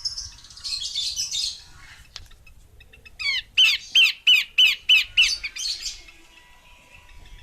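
Female pelanduk semak (babbler) calling: a harsh, scratchy chatter at first, then about two seconds later a quick series of about nine sharp, downward-sliding notes, roughly three a second.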